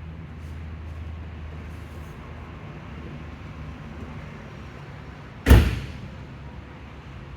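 A car door shutting with one heavy thud about five and a half seconds in, over a steady low hum.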